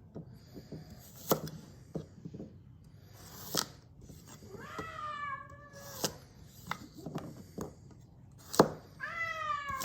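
Thinned Global G2 gyuto kitchen knife cutting a carrot, each stroke ending in a sharp tap on the cutting board, about seven taps at uneven spacing. A cat meows once in the middle and starts another meow near the end.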